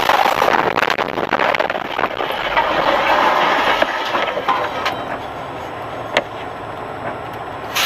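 Vehicle driving noise: a steady rush with frequent rattling clicks, heaviest in the first two seconds, and one sharp click about six seconds in.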